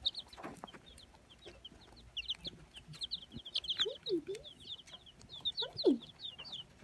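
A brooder full of baby chicks peeping, many short high chirps overlapping in quick succession. A short falling sound stands out a little before the end.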